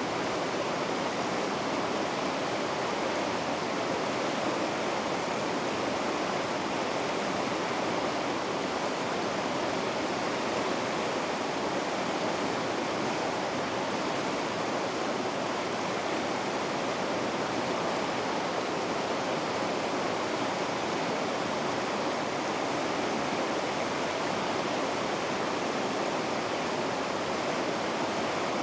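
River rapids rushing, a steady, unbroken wash of water that stays even throughout.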